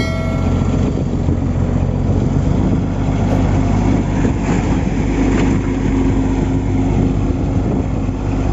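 Diesel engines of heavy earthmoving machinery running steadily with a low throb, as machines try to pull a bulldozer bogged deep in mud. A short high tone sounds right at the start.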